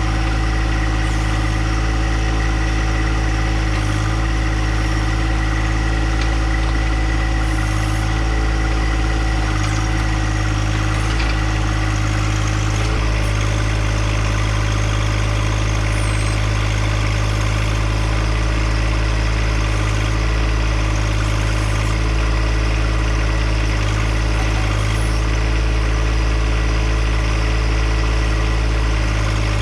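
Little John Deere compact tractor engine running steadily at an unchanging speed.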